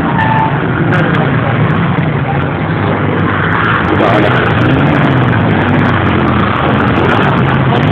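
A vehicle engine running steadily under a dense wash of noise, with faint voices now and then.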